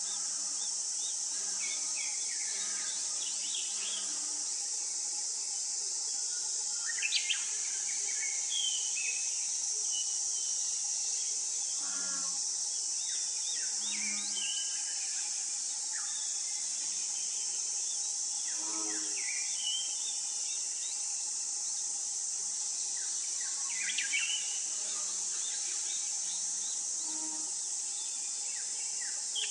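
A steady, high-pitched insect drone throughout, with scattered short bird chirps and calls over it.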